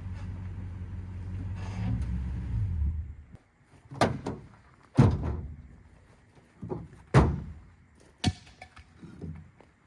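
A vehicle engine runs steadily, then shuts off about three seconds in. About six sharp thunks follow, roughly a second apart: scrap wood being unloaded and thrown down.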